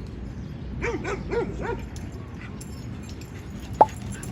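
Dogs at play barking: a quick run of about four short yappy barks about a second in, then one sharp, loud yip near the end.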